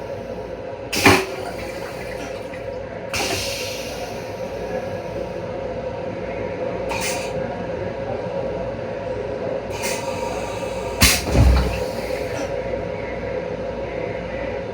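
LIRR M7 electric railcar running, heard from inside its restroom: a steady hum with a tone running under it, broken by several short sharp knocks and rattles, the loudest pair about eleven seconds in with a low thump after.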